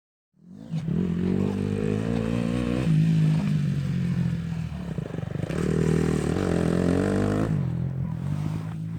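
Husqvarna TE 250 single-cylinder four-stroke dirt bike engine running under way, holding steady revs and then climbing in pitch about two-thirds of the way through before dropping off as the throttle is rolled off.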